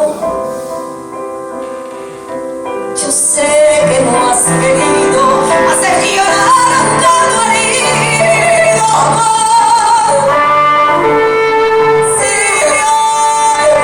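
A woman singing a ballad live with piano and band accompaniment. The music is softer for the first three seconds or so, then swells fuller and louder.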